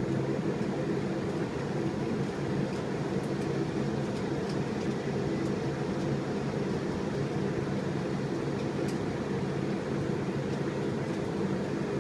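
A steady low mechanical hum that does not change, with a few faint ticks over it.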